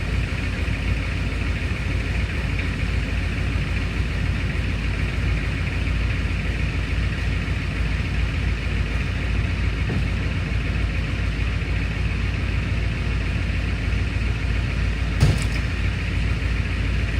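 A vehicle engine running steadily, with one sharp knock about 15 seconds in.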